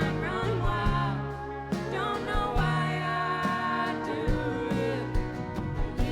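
Live indie-country rock band playing through a festival PA, with a woman singing over the instruments.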